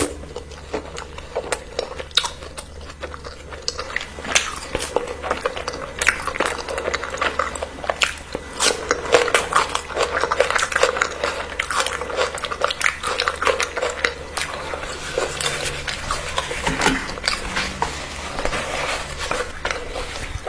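A person biting and chewing food, with many small irregular clicks.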